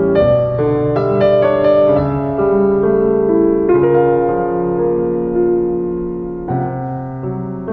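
Background piano music, slow and gentle, with sustained chords and a melody of held notes.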